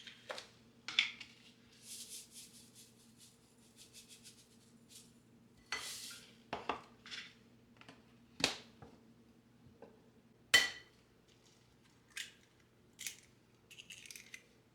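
Scattered light clinks, taps and knocks of kitchenware being handled, with a patch of fine crackly ticking in between, over a steady low hum.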